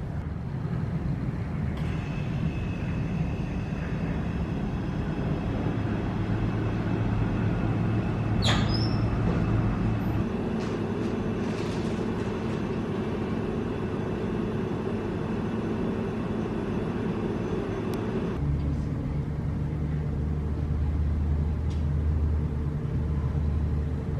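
A vehicle engine running with a steady low drone that shifts in pitch several times, with one sharp click about eight and a half seconds in.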